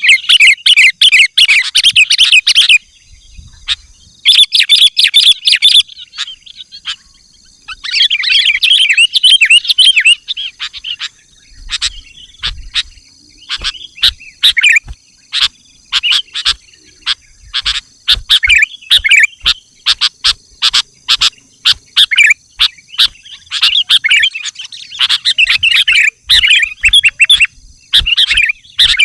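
Sooty-headed bulbul (kutilang) calling energetically: three bursts of dense chattering song in the first ten seconds, then a quick run of sharp chips and short phrases, several a second.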